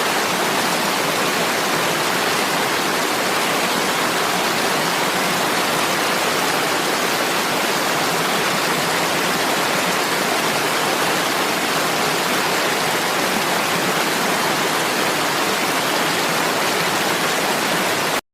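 Heavy rain falling in a steady, even hiss with no single drops standing out. It cuts off suddenly near the end.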